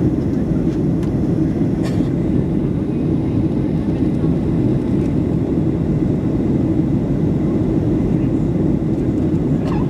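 Steady, loud cabin noise of a Boeing 757-200 in flight: a deep, even rush of engine and airflow noise heard from inside the cabin, with a couple of faint ticks.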